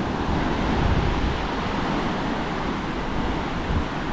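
Ocean surf washing onto a beach, a steady rushing wash, with wind buffeting the microphone.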